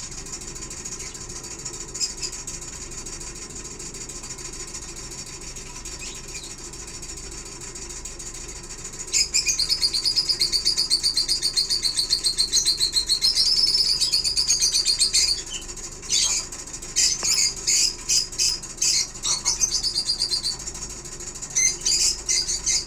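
Lovebirds chattering: after a stretch of steady low background hum, a fast run of high-pitched, rapidly repeated calls starts about nine seconds in and goes on in loud spells with short breaks.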